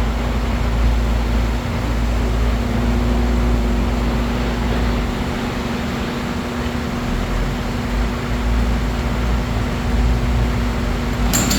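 Chainsaw's two-stroke engine running steadily on choke after being pulled over, with a sudden rattling clatter near the end.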